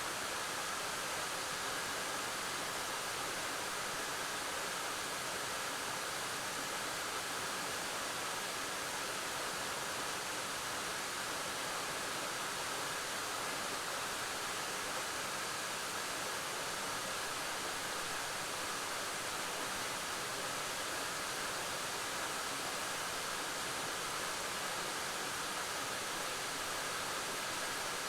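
Waterfall: water falling steadily onto rock and pool in an even, unbroken rush.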